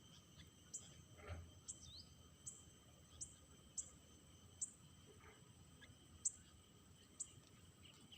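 Faint steady trilling of crickets, with short, very high chirps repeating about once every three-quarters of a second.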